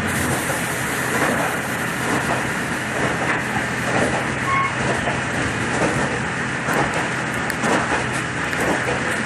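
Steady running noise of a moving vehicle, with a constant low hum.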